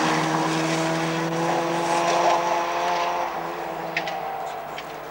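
Rally car engine running hard with a steady pitch as the car pulls away down a gravel stage, fading after about three seconds. A few sharp clicks come near the end.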